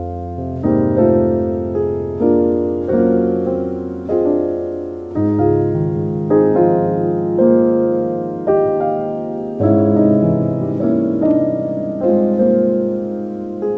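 Slow, soft piano music: notes and chords struck about once a second, each fading before the next, with the bass changing every few seconds.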